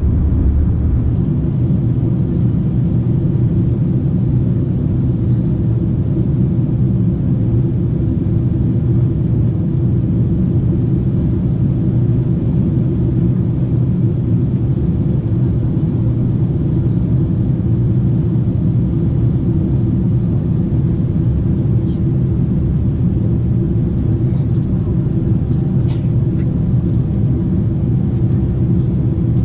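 Steady low rumble of engine and airflow noise inside the passenger cabin of an Airbus A350-900 airliner.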